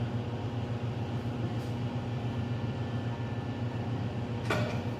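Air compressor running steadily with a low drone, with one short sharp noise about four and a half seconds in.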